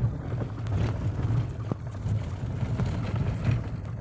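Suzuki Jimny driving over a rough dirt road: a steady low rumble of engine and tyres, with irregular knocks and rattles as it jolts over the bumps.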